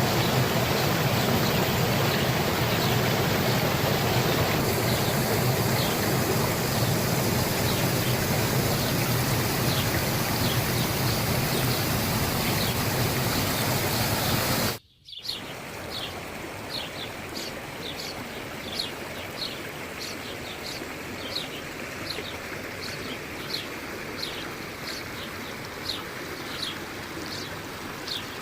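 Spring water gushing and splashing steadily. About halfway the sound breaks off for a moment and returns quieter, with a small bird chirping over the water in quick short high notes.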